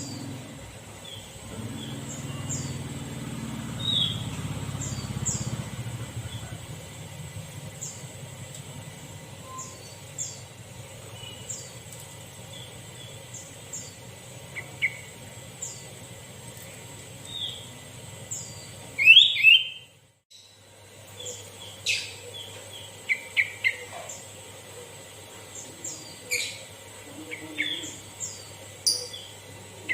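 Sooty-headed bulbuls (kutilang) calling: short chirping notes repeated throughout, with louder clusters of several quick notes about two-thirds through and near the end. The sound drops out briefly about two-thirds through.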